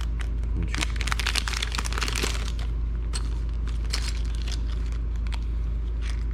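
Rustling, crinkling and small clicks of a tool kit being opened and rummaged through for a screwdriver. The handling is busiest in the first couple of seconds, then thins to scattered clicks, over a steady low hum.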